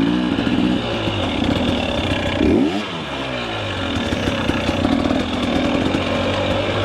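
KTM 300 EXC two-stroke enduro dirt bike engine running on a rough trail, revving up and down with the throttle, with a sharp rev and drop about two and a half seconds in.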